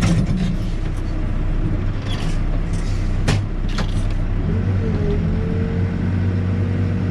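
Backhoe's diesel engine running steadily. A few sharp clicks come around three seconds in, and a higher steady tone joins the drone about four and a half seconds in.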